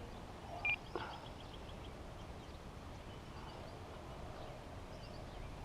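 Faint open-air ambience with birds chirping, broken by one short, high beep under a second in, the loudest moment.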